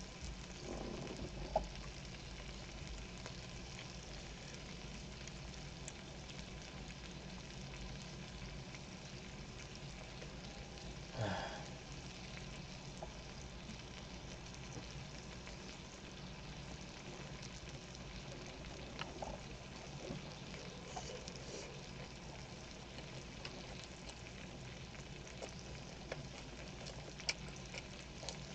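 Kimchi frying in pork belly fat in a pan, a faint steady sizzle, with a few light clicks.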